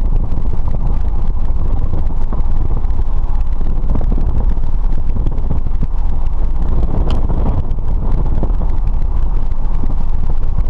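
Light airplane's engine and propeller running steadily, heard from inside the cockpit as a loud, even drone, with wind buffeting the microphone.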